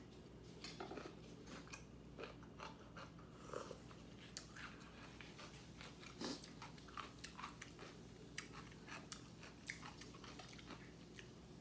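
A person chewing and biting food close to the microphone: a string of small, soft mouth clicks and crunches, a little louder about six seconds in.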